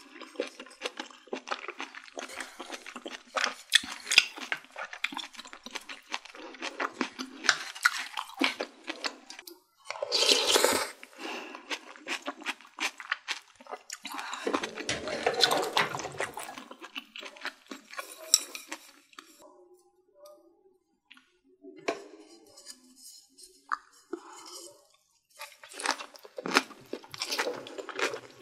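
Close-miked eating sounds of a person chewing mouthfuls of Korean blood sausage, boiled pork and soup, with many short clicks and taps of wooden utensils. It goes quieter for a few seconds about two-thirds of the way through.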